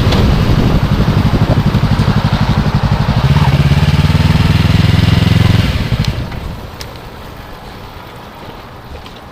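2015 Yamaha R3's parallel-twin engine running at low revs, its firing pulses plainly heard and getting louder partway through. About six seconds in it dies away quickly, leaving quiet background.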